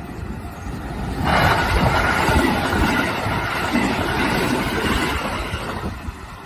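Sanyo Electric Railway 5030 series electric train passing close by, a loud rush of wheels and car bodies that starts suddenly about a second in and eases off near the end.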